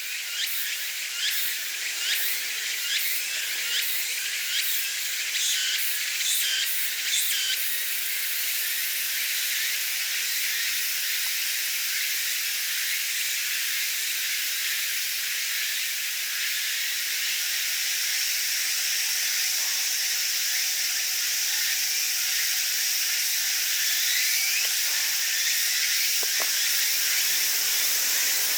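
A dense chorus of cicadas and other insects, a steady high-pitched buzzing. It pulses for the first several seconds, then settles into an even drone.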